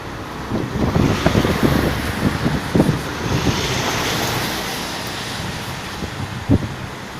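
Wind buffeting the microphone in irregular low gusts, with a rushing hiss that swells in the middle and fades away.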